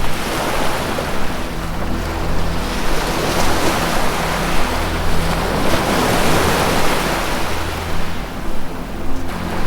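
Ocean surf washing in slow swells, over low sustained tones of ambient 432 Hz meditation music.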